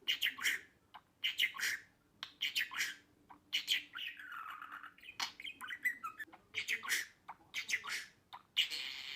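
Budgerigar chattering: quick runs of short, scratchy chirps and squawks, with a longer unbroken warble about four seconds in.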